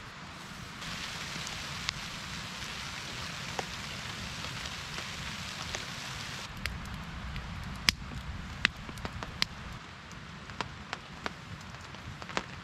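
Rain falling: a steady hiss of rain, which changes abruptly about halfway through to a quieter patter of single drops landing with sharp, scattered ticks.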